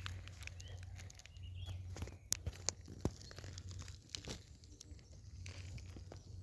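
Dry leaves and twigs crunching and crackling underfoot on a forest floor, with several sharp snaps about two and three seconds in, over a low steady hum.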